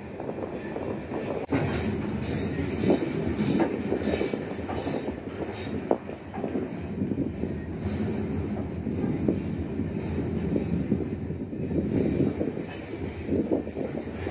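Iron ore wagon of the Mauritania Railway freight train running along the track, heard from on board the open wagon: a steady rumble and rattle with frequent metallic clanks.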